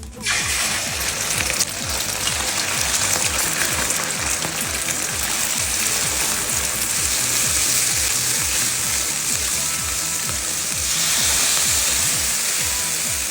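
Food frying in hot oil in a pan, sizzling loudly from a sudden start about when it goes in. A steady beat of background music runs underneath.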